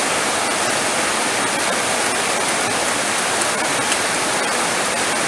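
Heavy rain falling steadily, a dense even downpour with faint scattered drop ticks.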